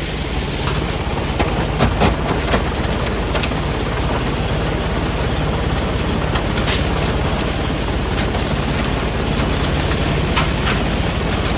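Stone-crushing plant machinery running steadily under load, a dense mechanical noise with scattered sharp knocks of rock striking metal.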